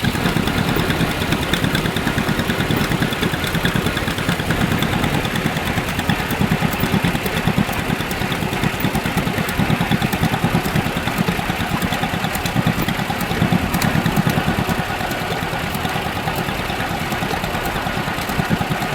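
Tractor engine running steadily at a low, even speed, heard close up from the seat while driving.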